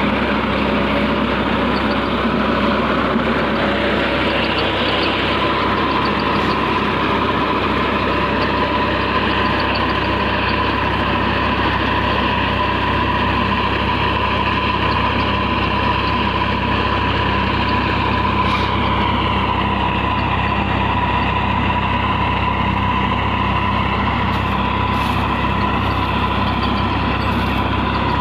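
New Holland 3230 tractor's diesel engine running steadily while it works a rotavator.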